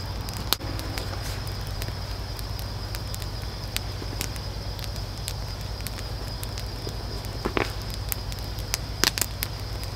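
Campfire wood crackling: irregular sharp pops and snaps, with a louder pair of snaps near the end.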